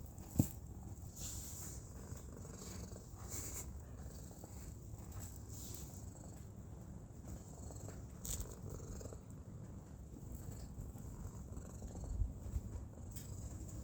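Domestic cat purring steadily, a continuous low rumble, with a brief sharp click about half a second in and a few soft knocks later.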